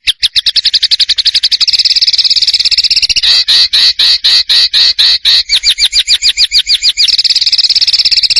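A small songbird's rapid repeated call: high, sharp notes that speed up into a fast trill, slow to about three louder notes a second midway, then quicken again. The sound starts and stops abruptly.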